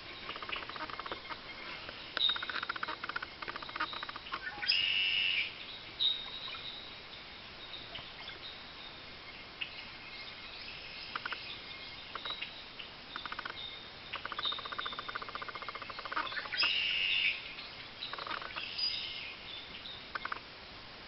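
Eastern bluebirds calling at the nest: short high chirps and runs of rapid chittering, with two louder bursts of calls about five and seventeen seconds in.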